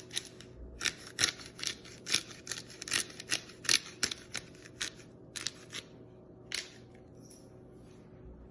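A series of sharp, irregular clicks and snaps, about two to three a second, which stop about seven seconds in, over a faint steady hum.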